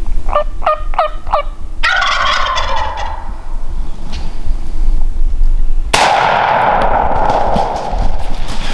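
Merriam's wild turkey gobbling: four short notes near the start, then a gobble about two seconds in and a louder one about six seconds in.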